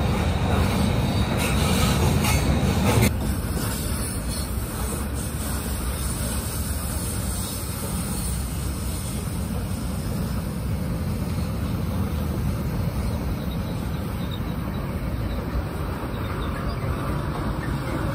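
Freight train of covered hopper cars rolling past, with steel wheels squealing and rattling over the rails. About three seconds in the squeal cuts off abruptly, leaving a quieter, steady low rumble of the train.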